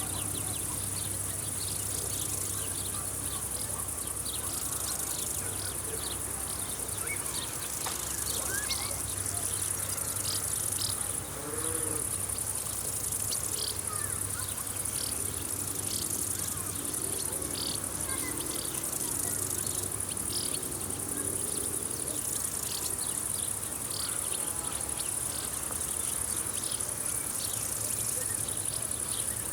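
Field insects trilling steadily at a high pitch, with many short, sharp chirps scattered through. A faint low hum lies underneath.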